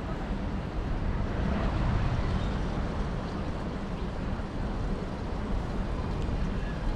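Steady outdoor city background noise: a continuous low rumble, typical of distant traffic mixed with wind on the microphone.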